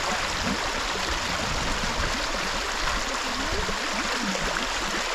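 River water rushing steadily over a shallow crossing.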